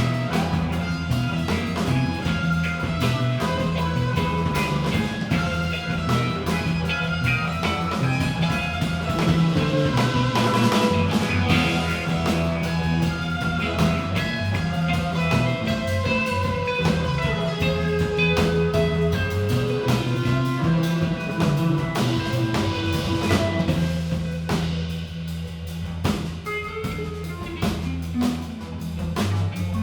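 Live rock band playing an instrumental passage: guitar over a steady low bass line and drum kit, with no singing. The playing thins out a little near the end.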